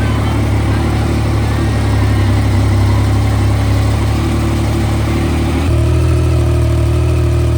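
Yamaha MT-09 Tracer three-cylinder motorcycle engine running at a steady speed, its note shifting slightly about two-thirds of the way through.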